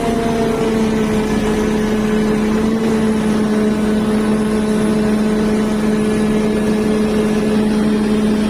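JCB telehandler engine running at a steady speed, a constant drone with a strong steady whine in it.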